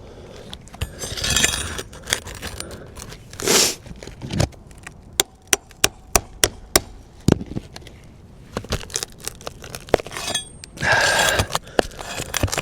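Steel pry bar working roofing nails out from under asphalt shingles: a run of sharp metallic clinks and taps, with a few short scraping rasps as the bar is forced under the shingle.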